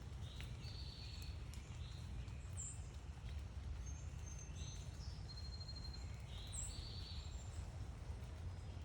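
Several small birds chirping and calling, short high notes scattered throughout, over a steady low rumble.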